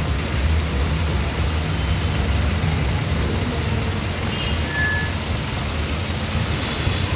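Diesel truck engine running steadily close by, a deep, even rumble.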